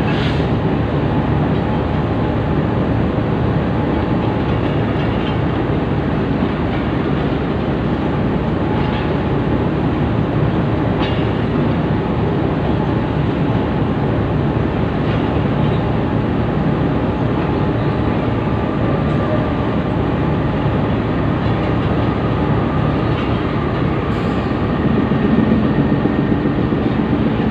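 Passenger coaches of a departing train rolling slowly along the rails, a steady running noise with a few faint clicks.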